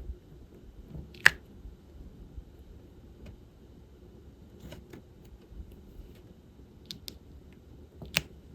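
Scattered small sharp clicks and taps of diamond painting: the drill pen picking resin drills from the tray and pressing them onto the canvas. The loudest click comes about a second in, with another fairly loud one near the end.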